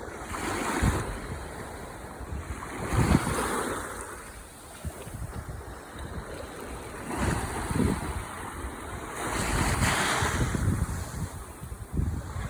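Ocean waves washing ashore, the surf rising and falling in surges every couple of seconds, with wind noise on the microphone underneath.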